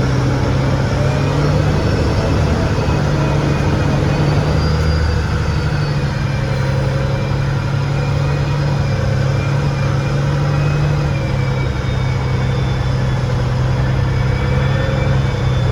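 An engine running steadily at an even speed, a loud low hum with a faint wavering whine above it.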